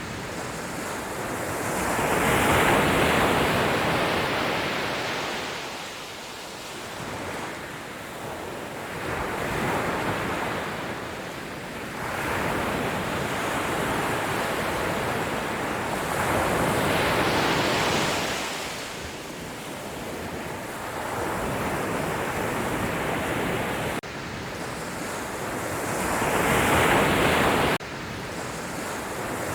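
Sea waves breaking on the shore and washing back, the surf swelling and ebbing in slow surges about every seven to eight seconds. The level drops suddenly a couple of times, near the end most plainly.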